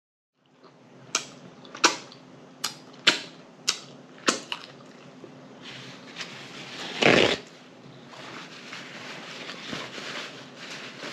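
Close-up mouth sounds of eating a bun-less cheeseburger: a quick run of about six sharp, wet lip smacks in the first few seconds, then a louder, longer mouth noise about seven seconds in, with softer chewing between.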